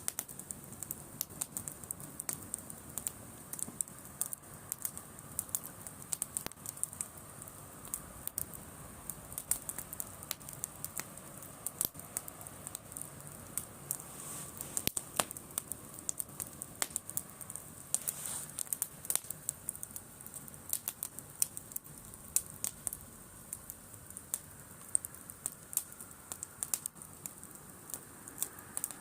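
Driftwood campfire crackling, with irregular sharp pops and snaps.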